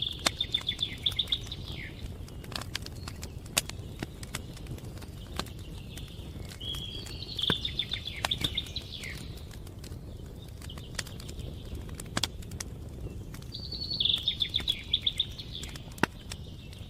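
Wood fire crackling with scattered sharp pops over a steady low rumble. A small songbird sings a rapid trilled phrase of about two seconds three times, roughly every seven seconds, and these phrases are the loudest sounds.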